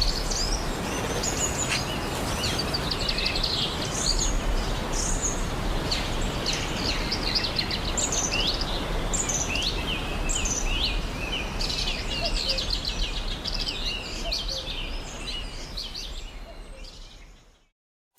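Many birds chirping and singing with short trills and whistles over a steady background rush, the whole fading out near the end.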